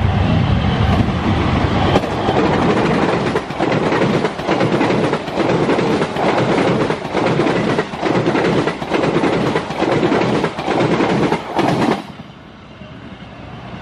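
Indonesian diesel-electric locomotive and its passenger coaches passing close by. The deep engine rumble gives way to a regular clickety-clack of the wheels over the rail joints, about once a second, which drops away sharply near the end as the last coach passes.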